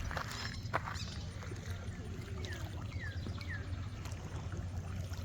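Shoreline ambience: water lapping under a steady low rumble, with a few faint clicks and three short falling chirps about two and a half seconds in.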